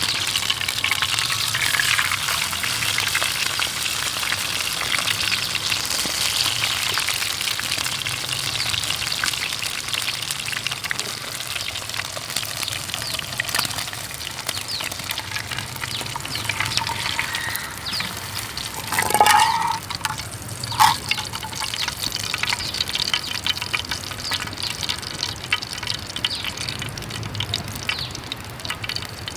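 Food frying in a pan: a steady sizzle full of fine crackles. About two-thirds of the way through comes a brief louder scrape with a ringing tone, then a sharp tap shortly after.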